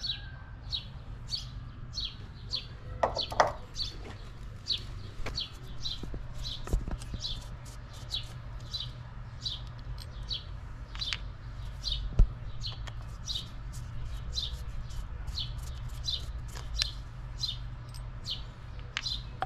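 A small bird chirping over and over, short high falling chirps about two a second, with a few sharp clicks and knocks of metal parts being handled; the loudest click comes about twelve seconds in.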